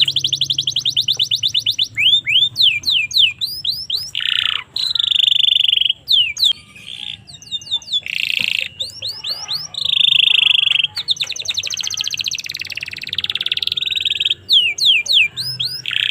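Domestic canary singing a long, varied song: rapid trills, runs of quick rising whistled notes and buzzy rolls follow one another with only brief pauses.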